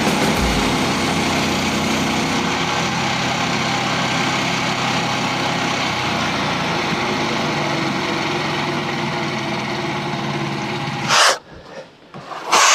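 Engine of a Frontier portable bandsaw sawmill running steadily through a cut in red oak, then cutting off suddenly about eleven seconds in.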